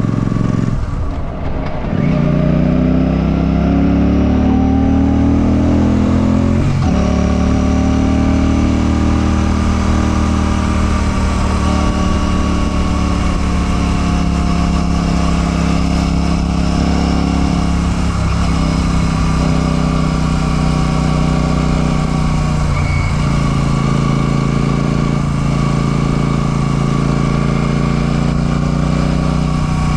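Royal Enfield Classic 650's parallel-twin engine running under way. It briefly dips about a second in and again around seven seconds in, each time followed by a rising pitch as it pulls through the gears, then it settles into steady cruising with slow rises and falls in pitch.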